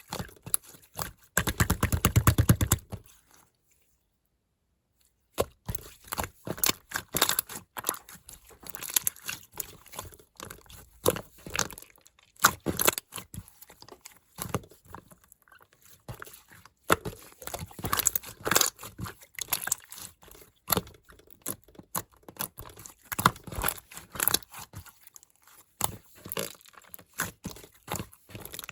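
Clear slime being squeezed, poked and stretched by hand, making irregular sticky clicks and small pops. About two seconds in comes a dense rapid run of pops, and the sound breaks off for a second or two soon after.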